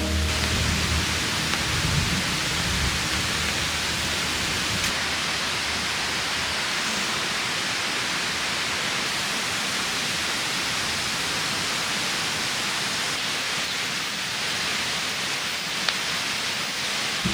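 Steady rain falling, an even hiss throughout, with a low rumble underneath during the first few seconds.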